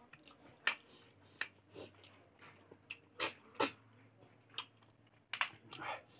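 Close-up chewing and wet mouth smacks of someone eating pork and rice, heard as a string of short, sharp smacks spread about a second apart, two of them close together near the middle.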